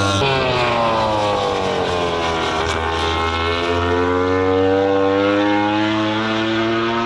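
MotoGP racing motorcycle engines running at high revs. The note sinks slowly, climbs again, then holds steady near the end.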